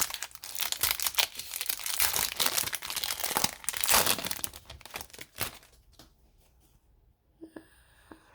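Foil wrapper of a hockey card pack being torn open and crinkled, a dense crackling for about five seconds, then a few faint handling sounds.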